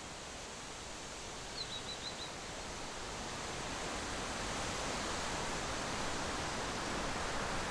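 A steady rushing noise that grows louder. About a second and a half in, a small bird gives a quick run of about five high chirps.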